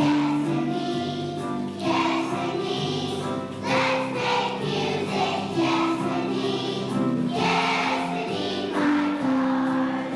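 Choir of first-grade children singing a song with musical accompaniment, in a school program.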